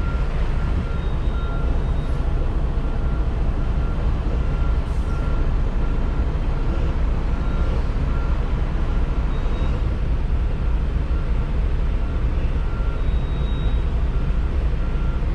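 Semi truck diesel engine running steadily at low revs while the truck reverses into a loading dock, with a backup alarm beeping at a regular pace.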